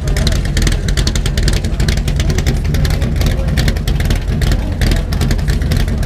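Loud car engine running with a steady low rumble.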